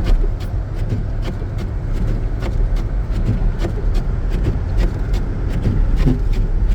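Cabin noise of a 2014 Jeep Grand Cherokee driving through deep snow: a steady low rumble of engine and tires, with frequent irregular clicks and ticks over it.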